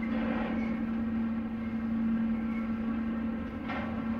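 Double-stack intermodal well cars of a Norfolk Southern freight train rolling past on the rails: a steady rolling rumble with a steady hum, and a sharp wheel clack near the end.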